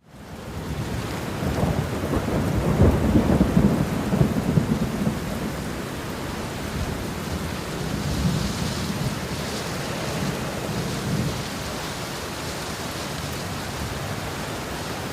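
Steady rain falling with thunder rumbling, the loudest rumble a couple of seconds in and smaller rumbles later on.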